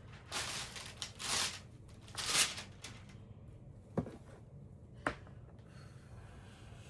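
A scrap piece of craft board waved to fan freshly applied hot glue, making three rustling swishes about a second apart, followed by two light taps.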